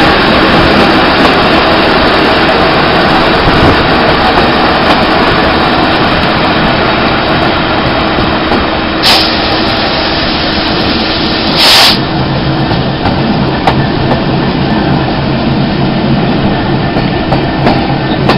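Train running at speed, heard from an open coach window: a steady rush of wind and wheel-on-rail noise with the low note of the hauling GBRF Class 66 diesel locomotive under it. Two brief, loud rushes of noise come about nine and twelve seconds in, and the engine's steady low note stands out more clearly after the second.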